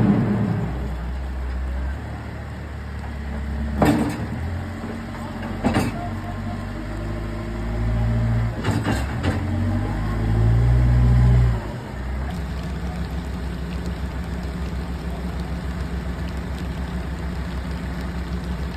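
Heavy work vehicle's engine running at the debris cleanup, with a few sharp knocks in the first half. The engine grows louder for a few seconds, drops off suddenly just before the middle, then settles into a steady pulsing idle.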